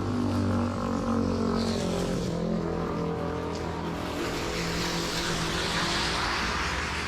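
A motor vehicle passing: a steady engine hum that shifts in pitch, then a swell of broad noise in the second half. Steady rain runs underneath.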